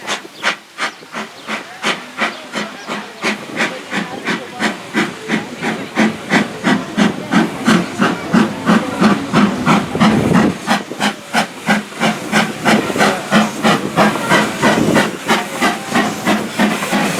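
Steam locomotive, the Strasburg Rail Road's Thomas the Tank Engine rebuilt from Brooklyn Eastern District Terminal #15, working under steam. Its exhaust chuffs in an even beat of about three a second, with hissing steam, growing louder over the first half.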